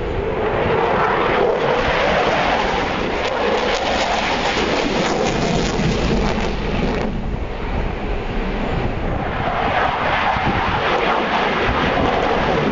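Eurofighter Typhoon's twin EJ200 turbofan jet engines at high power with afterburner lit, a continuous loud jet roar as the fighter passes overhead. The high hiss in the roar drops away abruptly about seven seconds in, then swells again.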